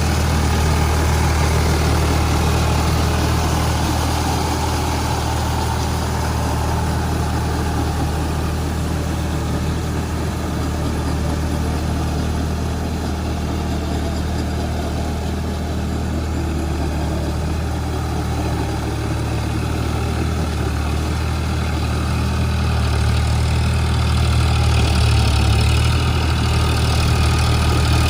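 Eicher 551 Prima G3 tractor's diesel engine running with a steady, deep drone, swelling slightly near the end.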